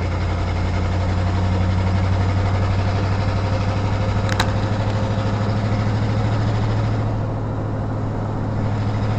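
A car's engine and exhaust heard from inside the cabin while driving, a steady low drone that pulses slightly in loudness, with one sharp click about four seconds in.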